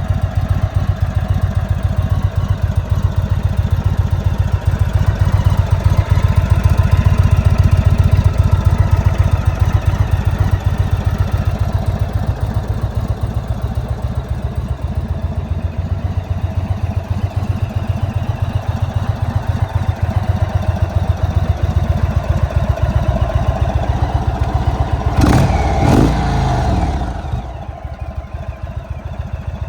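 2026 Indian Chief Vintage's 116 cubic-inch Thunderstroke V-twin running steadily at idle with an even pulse. Two short, sharp sounds come about a second apart near the end, and then the engine settles to a quieter idle.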